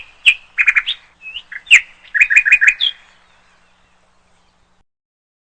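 A songbird singing a short, lively phrase of sharp chirps and quick trilled notes, ending about three seconds in.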